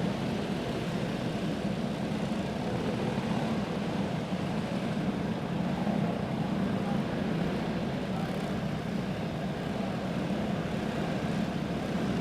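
A pack of single-cylinder clone-engine dirt-track racing karts running slowly under caution: a steady engine drone with no revving.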